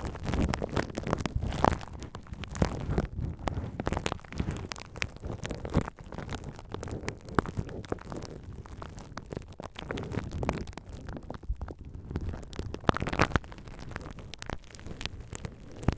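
Bubble wrap being handled and crinkled, with many irregular small crackles and pops over a low rustling rumble.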